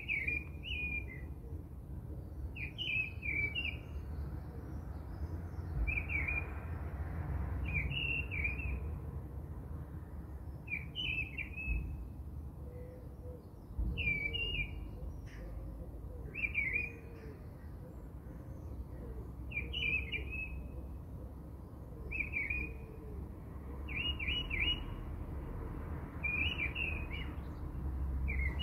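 A small songbird chirping in short phrases of a few quick notes, repeated every two to three seconds, over a low steady hum.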